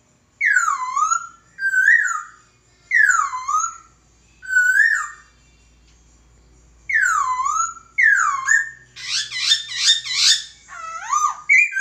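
Poksay (laughingthrush) singing loud, clear whistled notes that swoop down and back up, given in short phrases with a pause in the middle, then a quick run of notes near the end.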